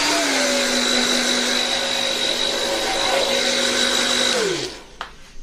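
Hand-held hair dryer blowing a steady rush of air with a motor hum. About four and a half seconds in it is switched off, and the motor winds down to a stop.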